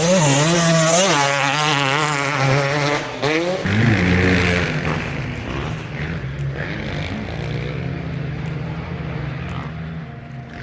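Motocross dirt bikes running on the track. One bike passes close under hard throttle, its engine note rising and dipping as the rider works the throttle and shifts for about three seconds. A lower, steadier engine note then carries on to the end.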